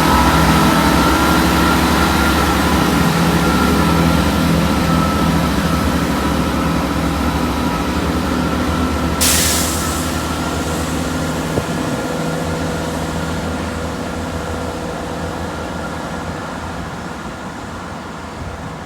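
Diesel multiple unit engines and transmission running with a steady drone, the whine having just slid down in pitch. A sharp burst of air hissing comes about nine seconds in, and the engine sound slowly fades toward the end.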